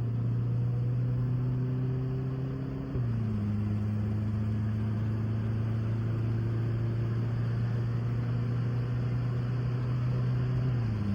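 Turbocharged four-cylinder engine of a Volkswagen GTI pulling hard under full throttle, a steady drone that drops in pitch about three seconds in and again near the end at gear changes.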